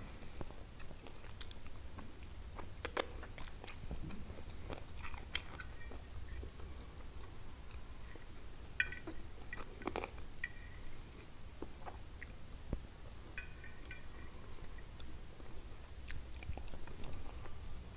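Close-miked chewing and biting of roast chicken wings and soft stewed eggplant, with wet mouth clicks throughout. A few sharper clicks stand out, a metal fork striking the plate, about three seconds in and twice near the middle.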